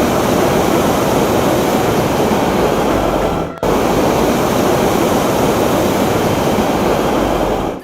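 Hot-air balloon's propane burner firing: a loud, steady rush. It breaks off for a moment about three and a half seconds in, then fires again.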